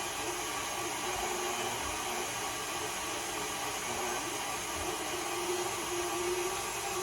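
KitchenAid stand mixer motor running steadily, driving a food grinder attachment that is grinding raw chicken thighs; a steady motor hum whose pitch wavers slightly as the meat is fed through.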